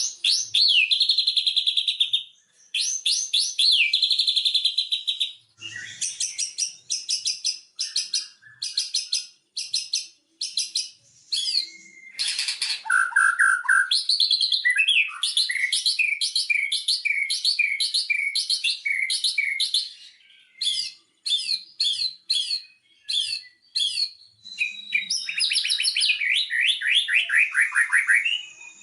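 White-rumped shama (murai batu) singing a long, varied song. It is made of rapid runs of repeated sharp notes and rattling trills, with a series of falling whistled notes in the middle.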